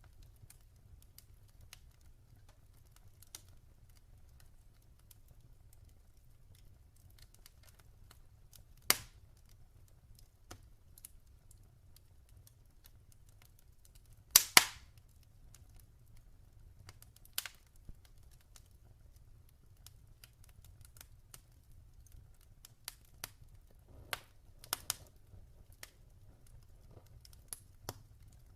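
Wood fire crackling: irregular sharp pops and small snaps at uneven intervals. The loudest are a single pop about a third of the way in and a double pop about halfway through.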